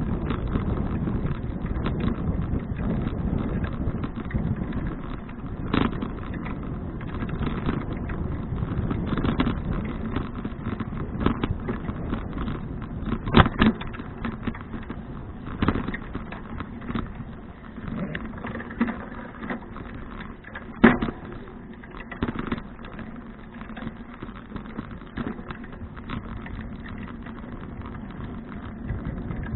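A 2012 Fuji touring bicycle being ridden: a steady rumble of tyres and wind, broken by sharp knocks and rattles, the loudest about 13 seconds in and again near 21 seconds.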